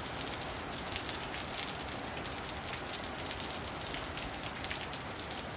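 Steady rain falling: an even hiss with scattered sharp taps of individual drops landing close by.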